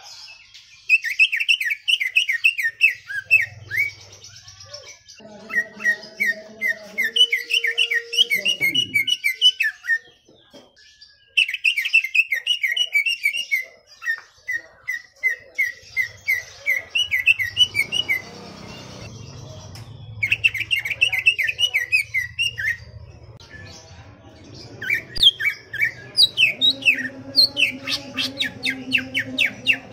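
Green leafbird (cucak ijo) singing in quick bouts of rapid, repeated chirps, each bout a few seconds long with short pauses between. A faint low hum runs underneath in the second half.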